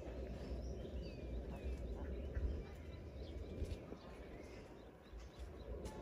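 Small birds chirping a few short calls over a steady low rumble of outdoor background noise.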